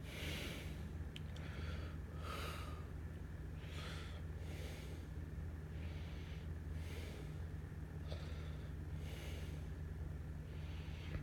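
Encon Monarch ceiling fan's motor giving a steady low hum, with a soft airy whoosh about every two seconds.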